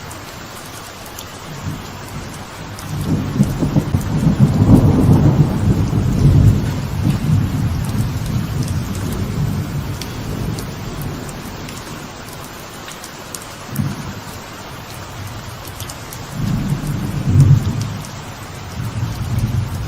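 Steady light rain falling on a veranda, with rolling thunder over it. A long low rumble builds about three seconds in and dies away over several seconds, a short rumble comes near the middle, and another rumble comes near the end.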